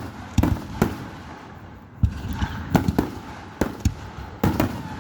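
Fireworks bursting: a quick, irregular series of sharp bangs, about eight of them, with a low rumble between.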